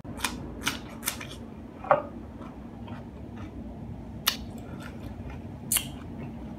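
Crisp cucumber slice being bitten and chewed close to the microphone: a quick run of sharp crunches in the first two seconds, then two more spaced out later.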